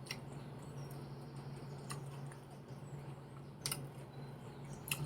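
A few light clicks and taps from eating, four in all and spaced about a second or more apart, over a steady low hum.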